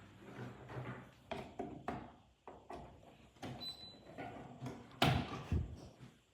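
Irregular clicks and knocks, like things being handled or opened and closed, with a louder thump about five seconds in.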